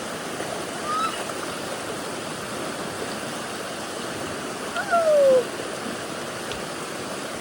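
Storm-swollen mountain creek rushing steadily. A short call about a second in, and a louder one about five seconds in that falls in pitch.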